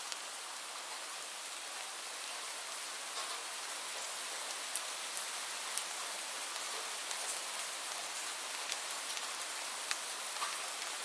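Steady rain with a continuous hiss and scattered individual drop taps, a few sharper ones standing out.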